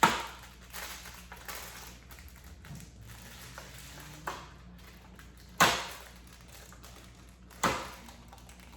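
Four sharp knocks a second or two apart, like a mold being banged against a table to free a molded Rice Krispie treat stuck inside it.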